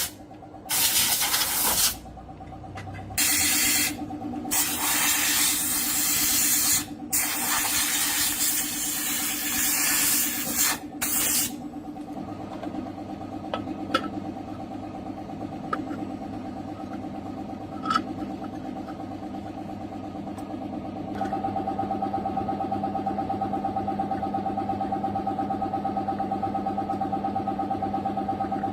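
Spray nozzle hissing in about half a dozen on-off bursts over a steady hum. After about 12 s the hiss stops and only the hum goes on, getting louder a little past two-thirds of the way through.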